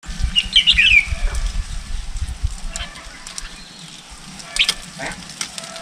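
A red-whiskered bulbul's quick burst of chirping notes in the first second, over a low rumbling noise on the microphone. A few short, sharp notes and a falling call follow near the end.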